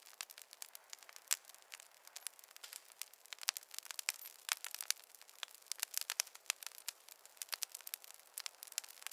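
Wood fire crackling: dense, irregular sharp pops and snaps over a faint hiss, with no low rumble.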